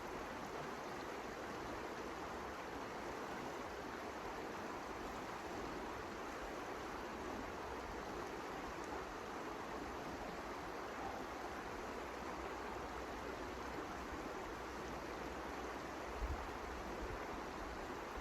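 Steady rushing noise with no clear tone or rhythm, and a brief low thump near the end.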